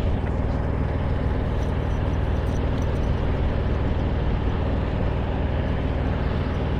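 Heavy diesel engine running steadily close by, a deep, even sound with no change in speed.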